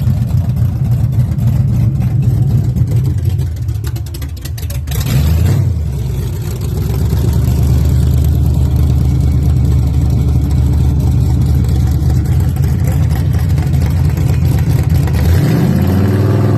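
Cammed small-block Chevy V8 in a 1981 GMC 1500 pickup running loudly, revved briefly about five seconds in and again near the end.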